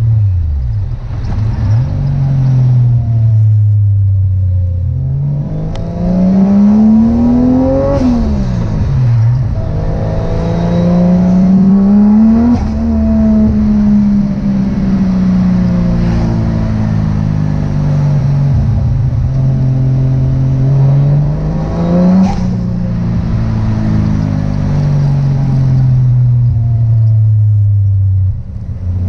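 Turbocharged 1JZ VVTi straight-six in a Nissan 240SX under way, its revs climbing and falling several times as the car is driven. The revs drop sharply about eight seconds in and again about twenty-two seconds in.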